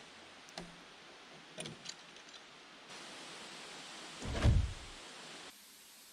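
A single heavy thump about four and a half seconds in, over a steady hiss, with a few light knocks before it.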